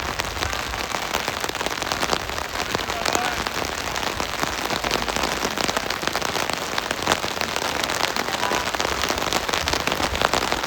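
Heavy rain falling steadily, with many sharp individual drop hits close to the microphone.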